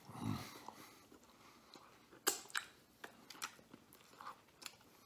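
A man chewing a mouthful of cheesy stuffed garlic knot, with wet lip smacks and chewing clicks, the loudest a pair about two and a half seconds in. There is a short low hum from his closed mouth right at the start.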